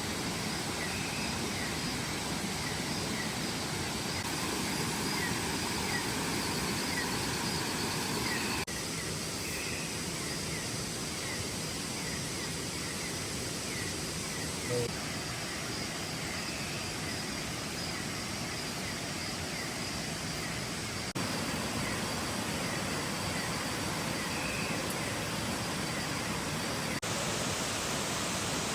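Waterfall's falling water rushing steadily. Its tone shifts slightly a few times, and faint short chirps repeat above it.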